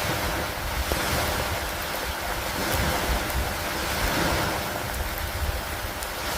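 Steady rain hiss over a low, wavering rumble, with a few faint drip-like ticks.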